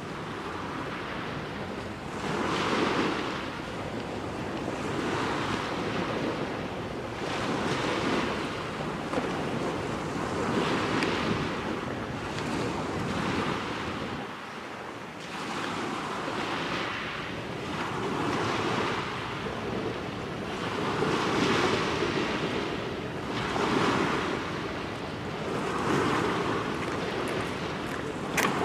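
Small waves washing onto the shore in regular surges about every two and a half seconds, with wind buffeting the microphone. A sharp click near the end.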